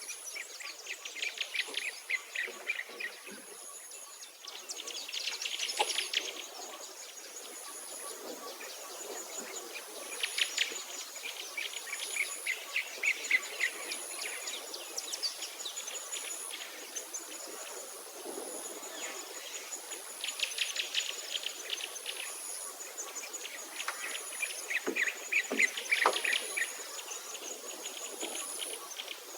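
Songbirds chirping and trilling in rapid bursts every few seconds, over a high-pitched insect call that pulses about once a second.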